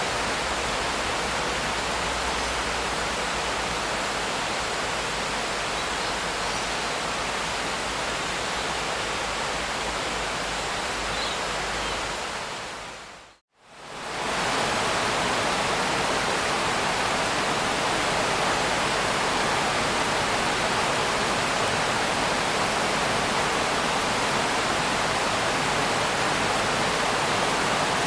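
Steady rain hiss, an even rushing noise with no distinct drops. About halfway through it fades out to silence for a moment and fades back in, like a loop point in the recording.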